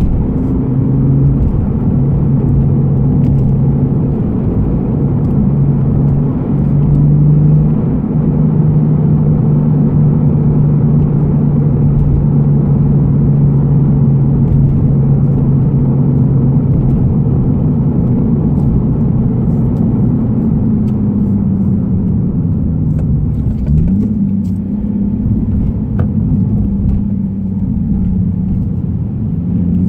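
Nissan Fairlady Z (Z34) 3.7-litre V6 and aftermarket be free muffler heard from inside the cabin while cruising gently, a steady drone at constant revs. In the last third the revs fall away, dip, and then climb again near the end.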